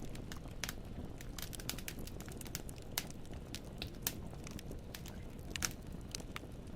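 Logs burning in a fireplace, crackling: irregular sharp pops and snaps over a low steady rumble of the fire, a few of them louder, around the middle and about two-thirds of the way in.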